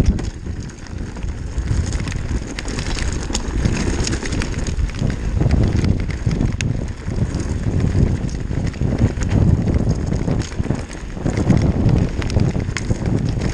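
Downhill mountain bike running fast over a rocky trail: a constant rumble of tyres on loose, wet stones, with frequent sharp clicks and knocks from the bike's parts and from stones being kicked up, and wind on the microphone.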